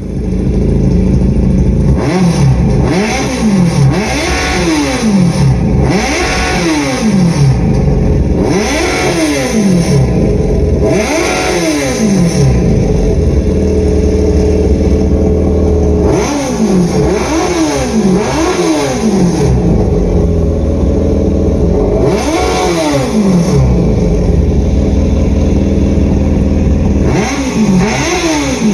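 Replacement engine for a first-generation Yamaha FZ1 motorcycle running: it idles and is blipped over and over in quick throttle revs that rise and fall, often two close together, with a few seconds held at higher revs about halfway through.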